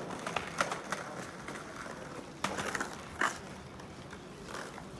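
Outdoor city street ambience: scattered sharp clicks and knocks over a steady low background noise, the loudest two about halfway through.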